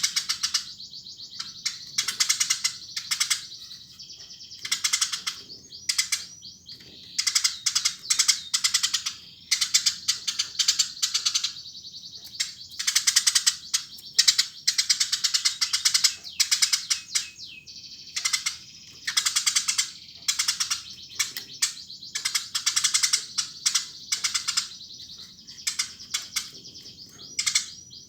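Eurasian tree sparrow chirping busily: rapid strings of high chirps in bouts of about a second, one after another with short gaps.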